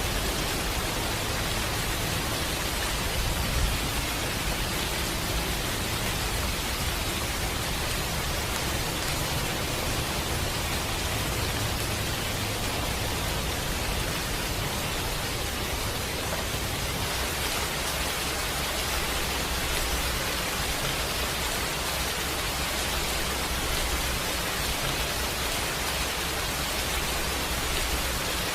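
Steady rain, an even dense hiss without letting up, with one brief louder tick about three and a half seconds in.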